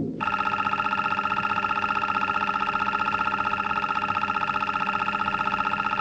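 Mechonoid robot sound effect: a steady electronic buzzing tone with a fast, even flutter, starting just after the beginning.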